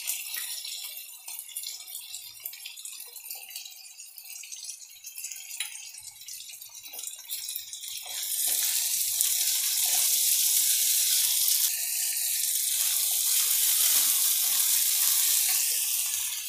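Chopped tomatoes and onions sizzling in hot oil in a kadhai over a full gas flame, with a steel ladle clicking and scraping against the pan as they are stirred. About eight seconds in, the sizzle swells into a loud, steady hiss that falls back near the end.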